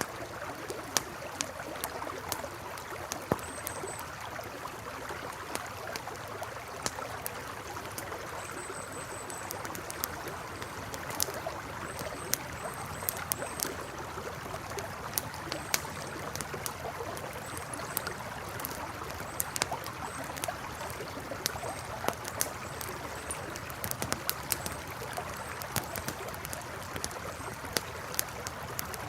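Campfire crackling with frequent sharp pops over the steady rush of a flowing river. Faint, high, short chirps come and go.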